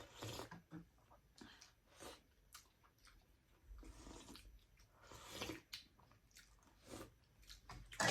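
A person chewing and eating noodles and momo: faint, irregular mouth sounds with soft smacks and small clicks.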